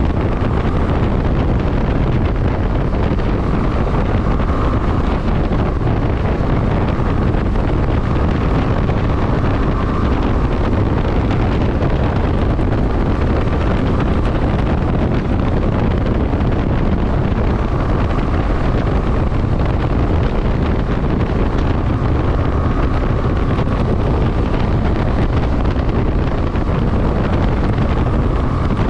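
Wind rushing over the microphone of a moving motorcycle, loud and steady, with road and engine noise underneath and a faint tone that comes and goes.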